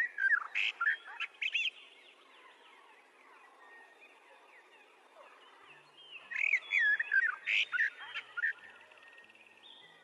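A bird chirping in two quick bursts of high, looping chirps, a few seconds apart, with faint steady hiss between them.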